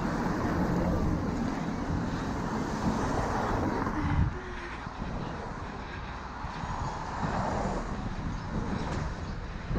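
Street traffic noise heard from a moving bicycle: a steady rush of passing vehicles with low rumble, and a brief low thump a little past four seconds in.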